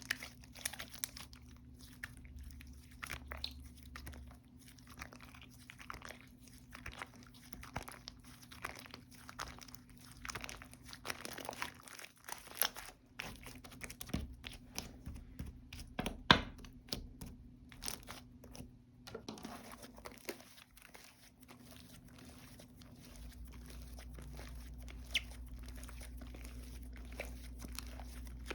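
Slime being squished and worked by hand, giving an irregular run of small sticky clicks and pops, one sharper pop about halfway through. A faint steady low hum runs underneath and gets louder near the end.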